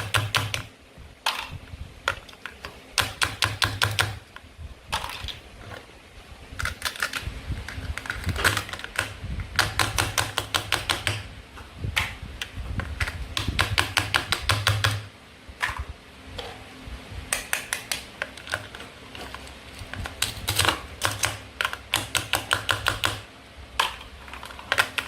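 Rapid chopping on play-food fruit and vegetable toys, runs of quick sharp clicks about ten a second, each run lasting about a second, with a dull knock of the board under them, over and over.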